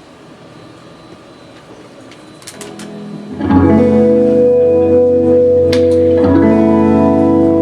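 Live band beginning a song: after about three seconds of low room noise, loud, sustained guitar chords come in about three and a half seconds in, and the chord changes about six seconds in.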